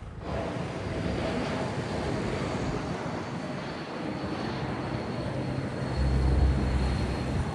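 Aircraft engines passing close by: a steady rush with a thin high whine, which swells into a deep rumble near the end.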